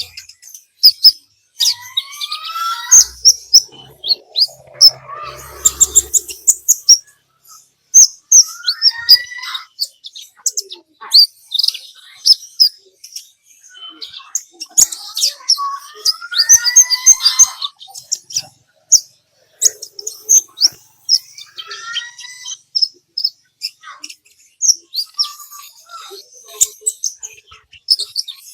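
Kolibri ninja (konin) sunbird song: rapid runs of sharp, high chirps broken by warbling phrases of gliding notes every few seconds.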